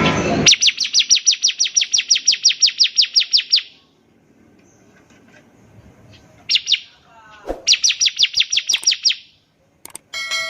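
Bar-winged prinia (ciblek) singing its rapid-fire trill, sharp high notes at about eight a second, in two long runs with a short burst between them. There is a brief burst of noise at the very start and a short ringing tone near the end.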